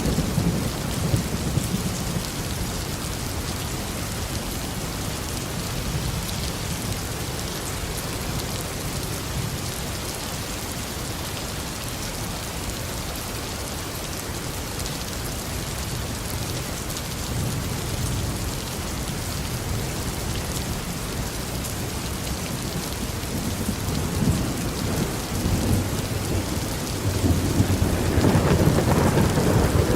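Tropical rain falling steadily, with thunder rumbling low at the start and again, louder, building over the last few seconds.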